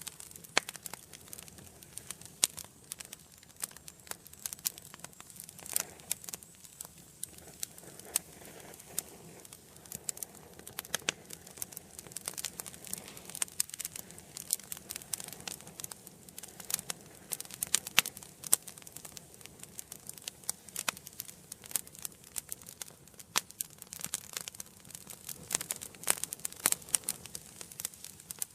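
Wood fire in a fireplace crackling, with many sharp, irregular pops and snaps over a soft hiss of flame.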